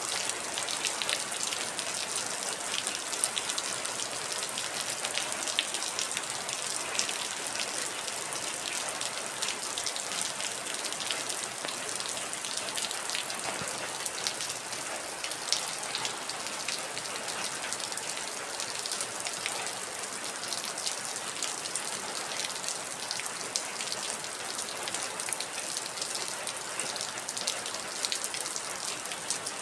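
Heavy, steady rain falling on a surface, a dense hiss with many individual drops ticking and pattering through it.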